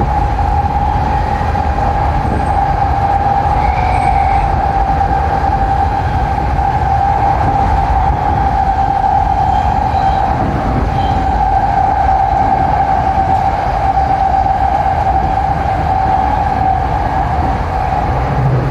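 Tokyo Metro 7000 series train running at speed, heard from inside the car: a continuous rumble of wheels on the track with a steady high whine that fades out near the end.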